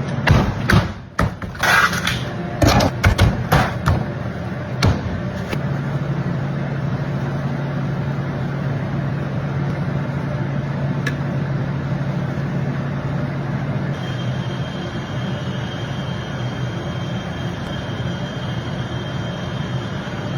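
A few sharp knocks and clatters of handling in the first five seconds, then a hot grill running with a steady whooshing hum and a low drone; a faint high steady tone joins about fourteen seconds in.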